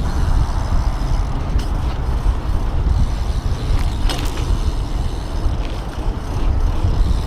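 Steady wind rumble on a head-mounted action camera's microphone while riding a BMX bike, with a few sharp clicks and rattles from the bike.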